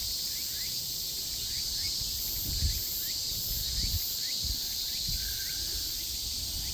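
Chorus of cicadas: a steady, high, shrill buzz with a pulsing layer above it. A run of short rising chirps repeats over it, with some low rumbling underneath.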